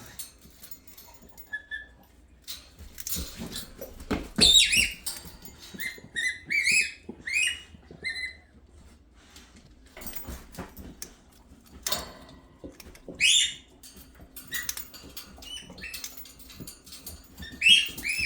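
Rubber dog squeaker toys being chewed, squeaking in short bursts of quick high squeaks several times, with scattered clicks and knocks of the toys being handled in between.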